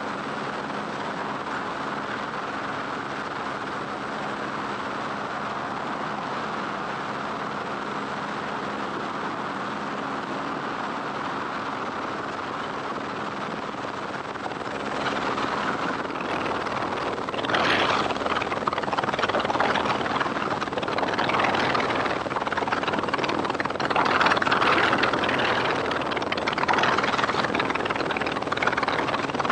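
Helicopter running in flight, a steady drone that turns louder and gustier about halfway through.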